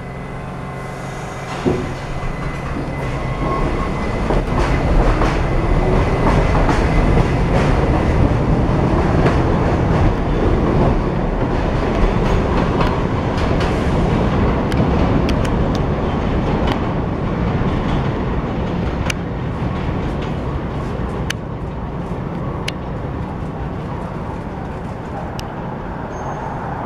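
New York City subway train running on the West End line's track, a steady rumble with wheels clicking over rail joints. It swells over the first few seconds and slowly eases toward the end.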